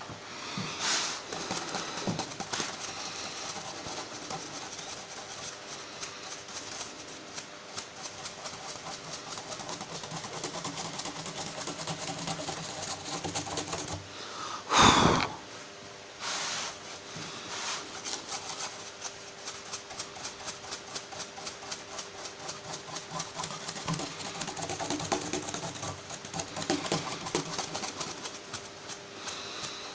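A brush swept in quick repeated short strokes over a guitar fretboard, clearing sanding dust from a freshly sanded superglue repair. About halfway through there is one louder, longer burst of sound.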